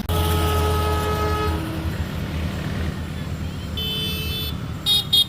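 Diesel locomotive air horn sounding for about two seconds over the steady low rumble of the engine. Later come a higher-pitched horn tone and, near the end, two short loud toots.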